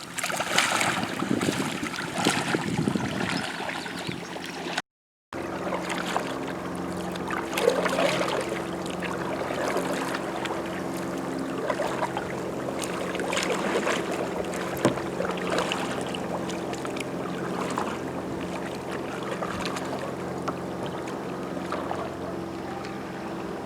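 Kayak paddle strokes splashing and dripping in lake water, louder in the first few seconds. After a brief cut about five seconds in, a steady low hum runs under the water sounds.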